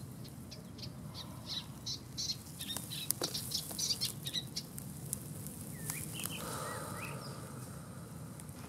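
Birds chirping: a quick run of short, high chirps in the first half, then a few sliding calls, over a steady low background hum.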